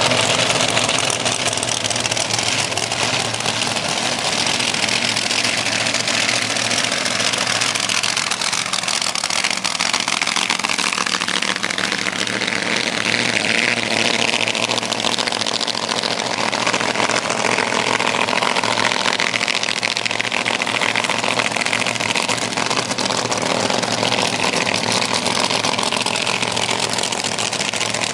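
Supercharged drag-racing engine running loud and steady, with only slight rises and falls.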